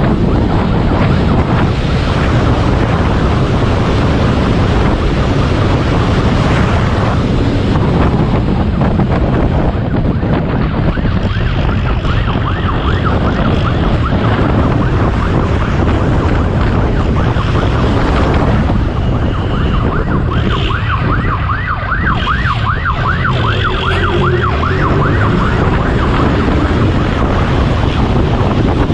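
Police siren in a fast yelp, warbling up and down several times a second and plainest in the second half. It rides over a steady rush of wind and engine noise from a motorcycle at high speed.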